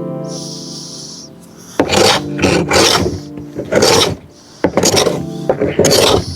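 A hand tool worked back and forth on wood in about five strokes, roughly one a second, each a coarse scraping rasp.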